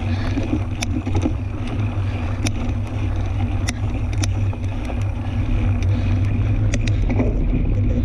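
Wind buffeting the microphone over the rolling noise of a fat-tyre tandem bike on a dirt trail, a steady low rumble with scattered sharp clicks.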